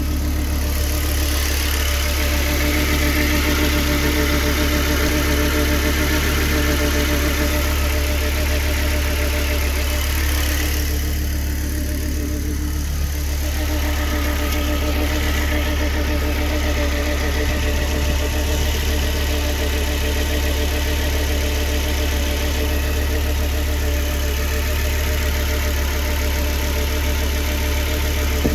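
1998 Volvo V70R's turbocharged 2.3-litre inline-five engine idling steadily.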